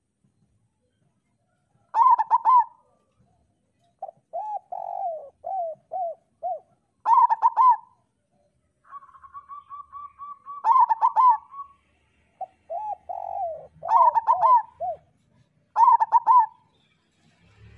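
Zebra doves (perkutut) cooing: short phrases of quick, curved coo notes repeat every couple of seconds. About nine seconds in there is a fast, even run of notes.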